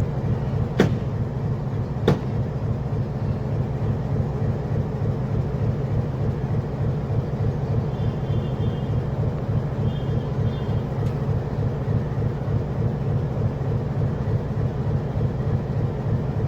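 Metre-gauge passenger train running along the track, a steady low rumble of wheels and a diesel locomotive, with two sharp clicks about a second and two seconds in.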